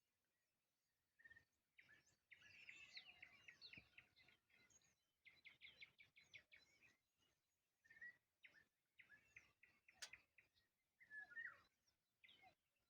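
Nightingale singing faintly: varied phrases of rapidly repeated notes, trills and short whistles, each burst a second or two long with short pauses between.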